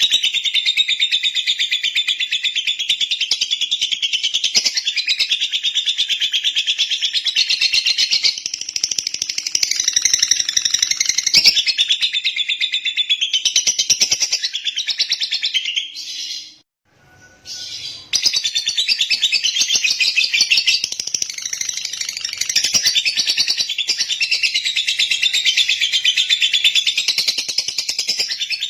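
Lovebird singing a long, unbroken stream of rapid high chirps, stopping briefly about sixteen seconds in and then going on again.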